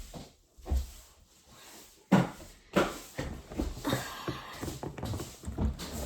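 Small plastic toys and minifigures being handled and set down: a series of clicks and knocks, the loudest two about two and three seconds in.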